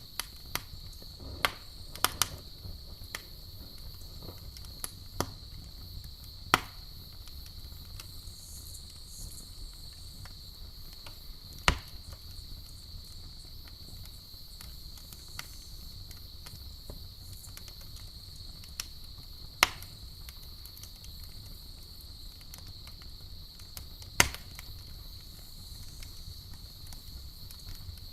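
Campfire crackling, with sharp pops at irregular intervals a few seconds apart, several of them louder than the rest. Under it runs the steady high chirring of crickets and a low rumble.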